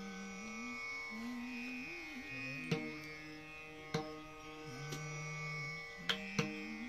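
Devotional bhajan music: a low voice holds and glides through a slow melody over a steady held drone, with four sharp drum strokes, the last two close together near the end.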